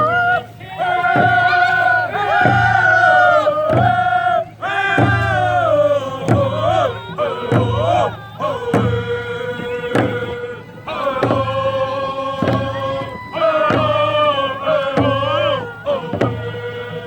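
A group of voices singing a chant over a steady drum beat, a little more than one beat a second.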